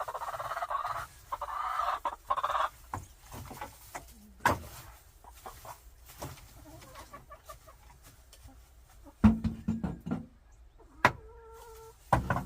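Chickens clucking. One hen gives a loud, drawn-out call in the first couple of seconds and another shorter call near the end, with several sharp knocks in between.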